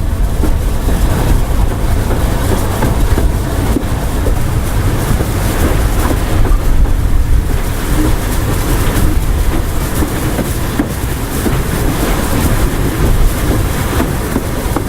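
A train running on a heritage railway line, with a loud steady rumble and rattle of wheels on rail.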